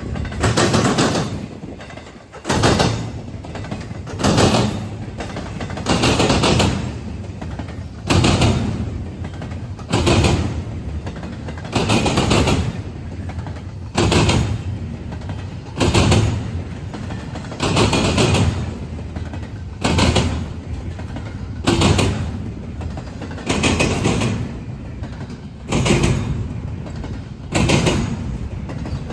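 A passing train's wheels bang over the track, one heavy clattering impact about every two seconds as each car goes by. Each bang fades over about a second.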